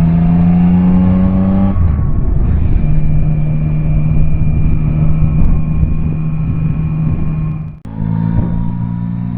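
Yamaha Tracer 9's 890 cc three-cylinder engine pulling under acceleration, its pitch rising, then a brief break as it shifts up and a steady engine note under load with wind noise. Near the end the sound cuts off for an instant and resumes with a different engine note.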